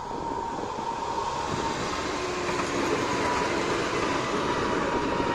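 Electric multiple-unit passenger train passing close by through a level crossing: rushing wheel and rail noise that swells over the first couple of seconds and then holds loud, with a steady high tone underneath.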